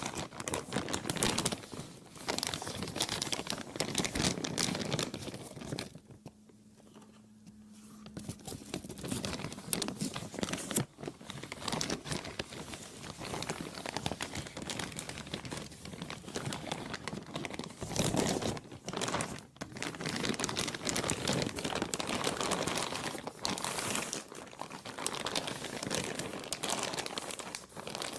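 Plastic being crumpled and crinkled by hand: a dense, irregular crackling that eases off for about two seconds a few seconds in, then carries on.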